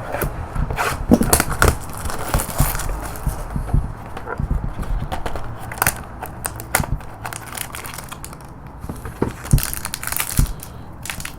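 Cardboard and plastic wrapping on a sealed box of trading cards being torn and crinkled open by hand, with irregular crackles, tears and clicks throughout and a busier stretch near the end.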